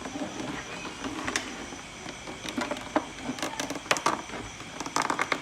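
Irregular light knocks and clicks of objects being handled, with a quick cluster of sharper clicks near the end.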